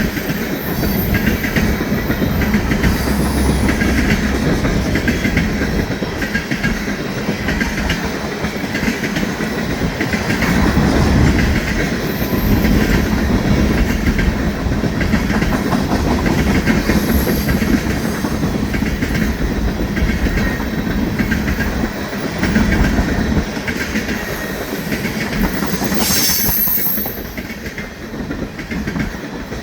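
Oil train tank cars rolling past, steel wheels clacking rhythmically over the rails, with a brief high screech near the end.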